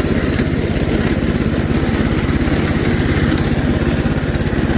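Mini bike's small engine running steadily, a fast even stream of firing pulses with no rise or fall in speed.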